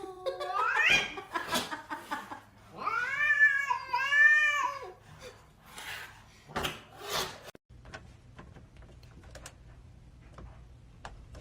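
A cat meowing in long, drawn-out calls: one rising call in the first second, then two long arching meows. A few knocks follow.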